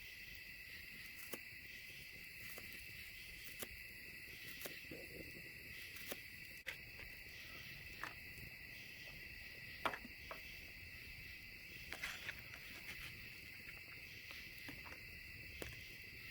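Crickets chirping in a steady, faint chorus. Scattered sharp crackles and clicks sound over it, the loudest about ten seconds in.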